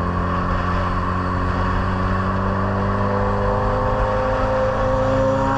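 Vehicle engine running steadily under load, its pitch slowly rising as it gains speed.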